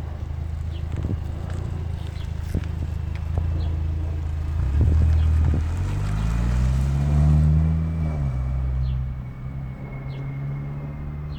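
Kia Stinger with an NGM axle-back exhaust pulling away: a low, deep exhaust rumble that climbs in pitch as the engine revs up about halfway through, peaks, then falls back and gets quieter as the car moves off.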